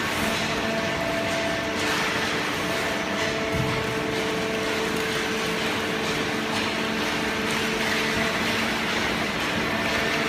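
Hydraulic baler running steadily: its motor and hydraulic pump give a constant hum with a few steady tones over an even machine hiss.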